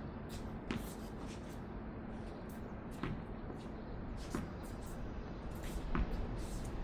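Tennis ball knocking off rackets and the court during a rally: four sharp hits spaced one to two seconds apart, the last the loudest, over a steady low background noise.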